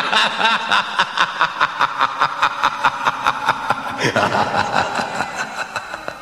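A person laughing in rapid, even pulses, about five a second, with the sound changing in character about four seconds in.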